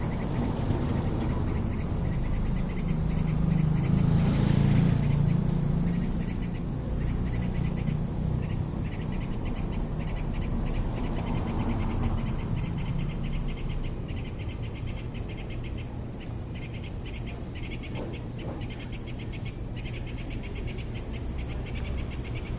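Insects trilling: a steady high buzz with a fast, even clicking trill, and short high rising chirps through the first several seconds. A low rumble swells and fades about three to seven seconds in.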